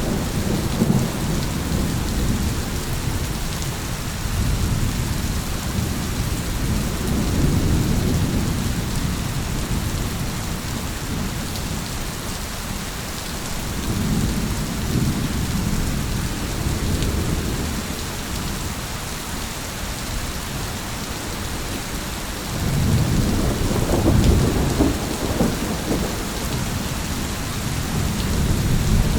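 Thunderstorm: steady rain hissing, with rolling thunder rumbling low underneath in several slow swells, the strongest rising near the end.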